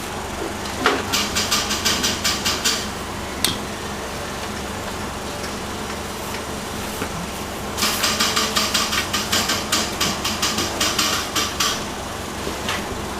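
A marking tool scratching rapidly back and forth while drawing an armhole line on a pattern: two runs of about four to five strokes a second, the second longer, over a steady low hum.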